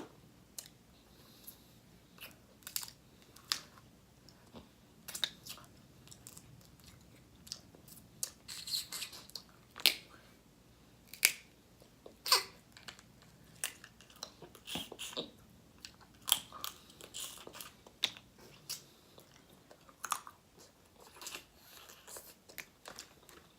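Close-up eating sounds of seafood: chewing, wet mouth noises and sharp clicks and cracks scattered unevenly throughout.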